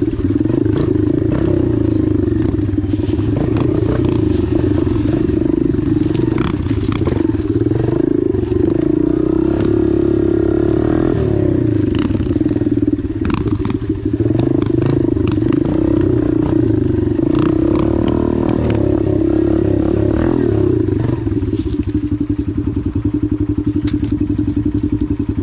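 Dirt bike engine running as it is ridden, its pitch dipping and rising with the throttle around the middle, with scattered knocks and clatter.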